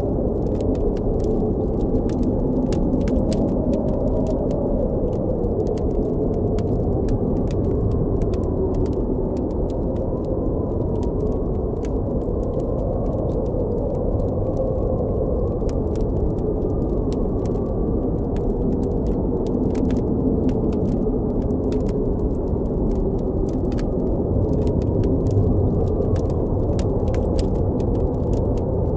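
Blizzard wind blowing steadily with a deep rumble and a howl that wavers up and down in pitch. Scattered small crackles and pops from a campfire run through it.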